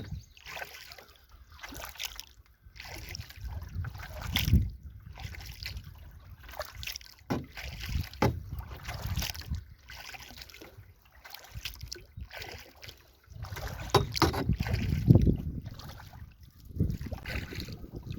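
Double-bladed kayak-style paddle stroking a canoe along, blades dipping and pulling through the water about once a second, left and right in turn. Wind buffets the microphone at times.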